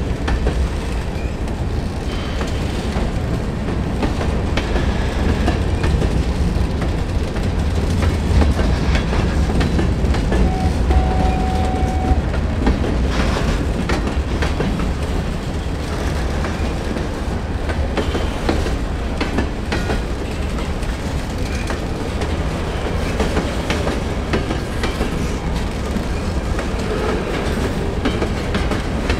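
A train rolling past close by: a steady rumble of railcars with wheels clicking over rail joints throughout.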